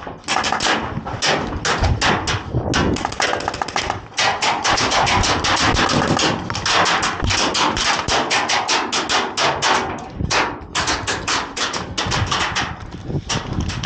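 Airsoft guns firing in long rapid-fire bursts: a dense string of sharp clacks, with short breaks about four seconds in and again about ten seconds in.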